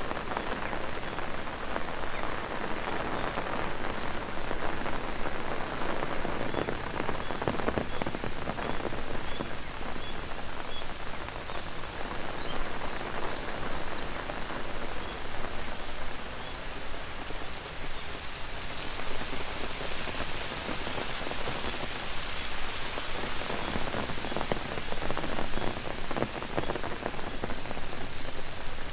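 Steady rain drumming on an umbrella in a dense patter of drops, under a continuous high, even cicada drone.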